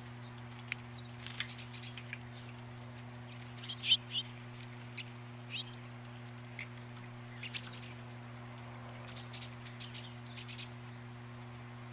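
Small birds giving short, scattered chirps, a few at a time, the loudest a brief cluster about four seconds in. A steady low electrical hum runs underneath.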